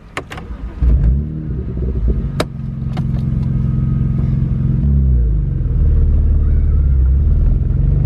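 A 2009 BMW 135i's twin-turbo inline-six pulling away under acceleration. Its note climbs and holds, drops sharply about five seconds in at a gear change, then carries on at lower revs. A few sharp clicks come in the first three seconds.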